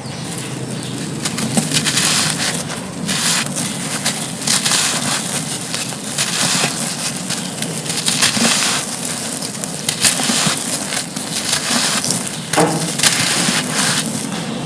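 Dry, gritty crumbly slabs being crushed and crumbled by hand, close to the microphone: steady crunching and crackling with sharp snaps here and there, the loudest snap about ten seconds in.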